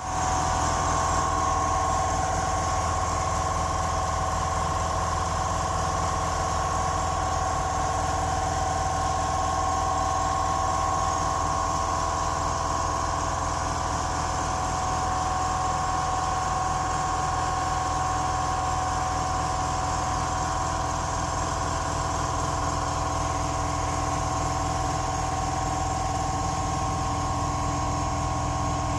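A smoke machine's air pump running steadily with a constant hum and whine, feeding smoke into a BMW N52 engine's intake to find a vacuum leak.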